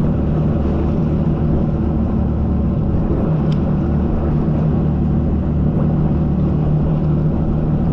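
Jet ski engine running at a steady pitch, a constant loud drone.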